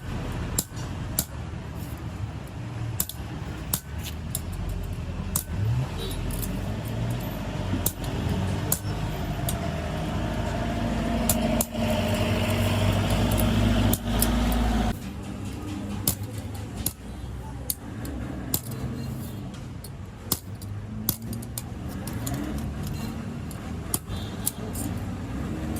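Irregular metallic taps and clinks of hand tools on metal, over a steady low rumble of engines. A louder engine-like hum builds about ten seconds in and cuts off suddenly about five seconds later.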